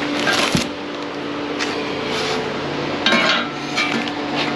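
Short rustles and light clatter, several in a row, as the unboxed stainless steel exhaust parts and their packaging are handled, over a steady hum.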